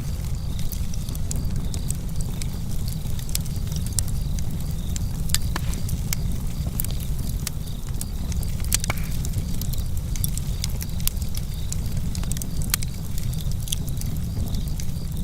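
Campfire crackling: many sharp, irregular pops and snaps of burning wood over a steady low rumble.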